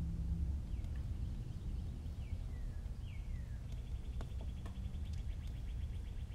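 Faint bird calls over a low steady hum: a few short descending chirps, then a fast even trill from just past halfway. A few light clicks are also heard.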